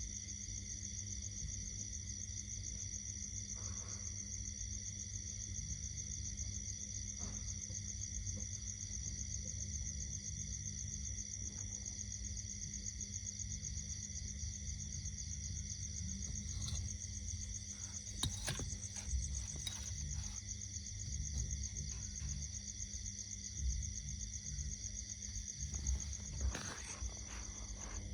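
Steady chorus of insects trilling at several high pitches over a low rumble, with a few short knocks in the second half.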